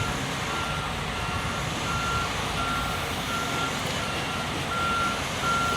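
A semi truck's reverse alarm beeping at a steady pace of a little more than one beep a second as the rig backs up, over the low rumble of its engine.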